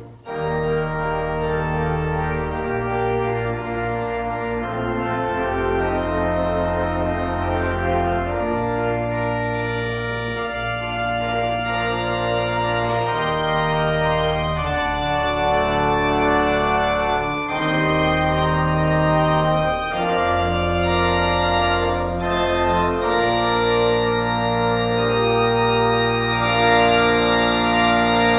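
Church organ playing a slow succession of held chords over a deep pedal bass, the chords changing every second or two.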